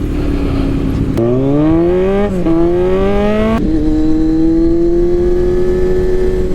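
Motorcycle engine accelerating hard, its pitch rising then dipping at two gear shifts about a second apart, then holding a steady cruise, over steady wind rush.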